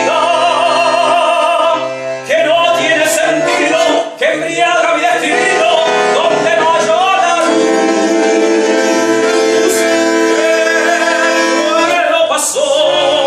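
A live song performance: long sung notes that waver in pitch, held over a steady instrumental accompaniment.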